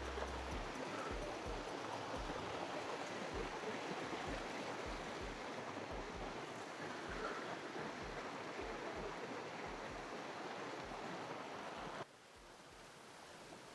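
Rain-swollen mountain stream rushing over rocks, a steady rush with irregular low thumps, dropping suddenly to a quieter rush about twelve seconds in.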